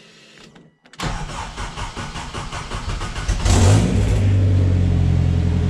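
Turbocharged Honda K20 four-cylinder engine's first start: the starter cranks it from about a second in, it catches about three and a half seconds in, flares, and settles into a loud, steady idle. It runs with no downpipe fitted.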